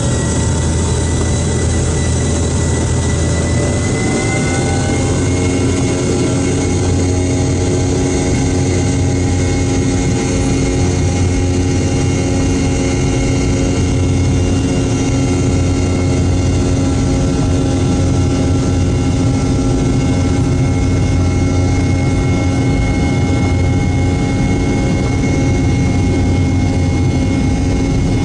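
Boeing 717's rear-mounted Rolls-Royce BR715 turbofans at takeoff thrust, heard from inside the cabin near the back. A rising whine settles about four seconds in, then holds steady over a continuous low rumble.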